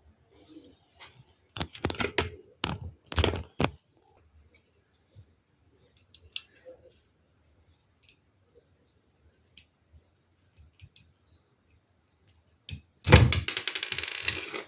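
LEGO Technic plastic pieces clicking and knocking as parts are handled and pressed together. A run of sharp clicks comes in the first few seconds, then scattered light taps, and near the end a loud, dense rattle like hands sorting through loose pieces.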